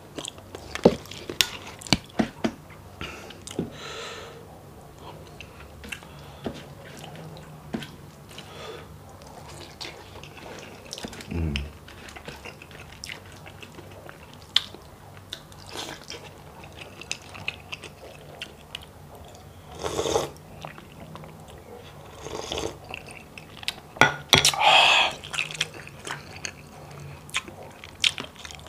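Close-up chewing and wet mouth sounds of someone eating stewed beef skin, bone marrow and rice, with many sharp smacking clicks. A few louder bursts of eating noise come about two-thirds of the way through and again near the end.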